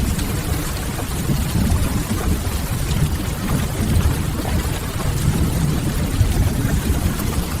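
Steady rain with a deep, even rumble underneath and faint crackling from a wood fire.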